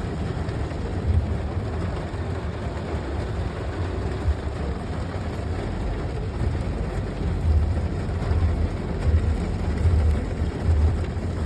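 Rain falling, an even hiss, with wind buffeting the microphone in uneven low rumbling gusts.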